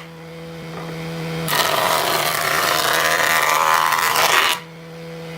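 Electric power tool humming as it runs free, then biting into wood with a loud, rough grinding for about three seconds, then humming unloaded again near the end.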